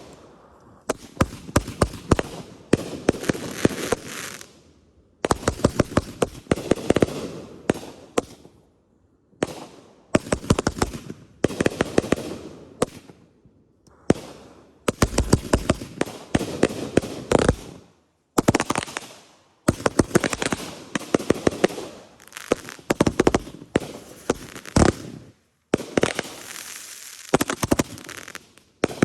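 Consumer fireworks going off in rapid volleys of sharp bangs and crackles. Each volley lasts two to four seconds and is followed by a brief gap before the next.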